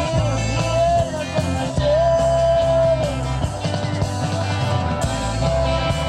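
Live band music: heavy bass and drums under a long, held melody line that slides up into each note.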